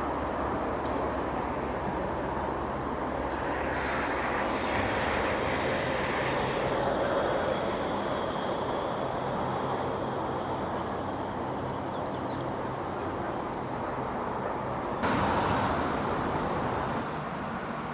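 A train passing: a steady rumble with a thin high whine held for several seconds in the middle. The sound changes abruptly near the end.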